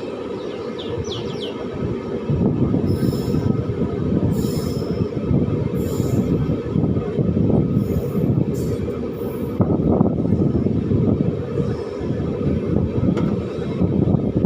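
Passenger train running, heard from on board: a steady rumble of the coach's wheels on the rails, with a few short high wheel squeals about a second in and brief higher squealing or hissing patches now and then.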